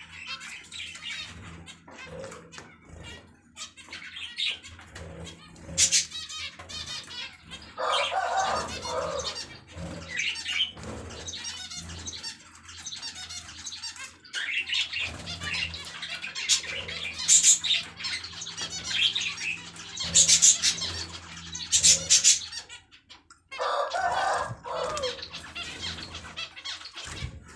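Pet finches and lovebirds chirping in many short high calls, with wings flapping and fluttering.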